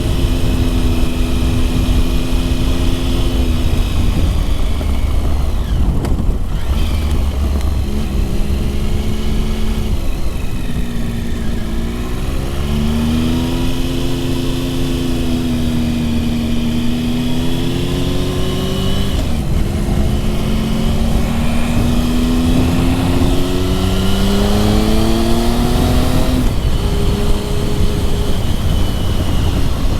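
Motorcycle engine heard while riding uphill, its note rising and falling several times with throttle and gear changes, over a steady low wind rumble.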